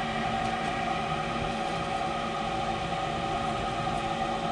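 Steady hum of a running gas-furnace motor, holding a constant pitch with no change in speed.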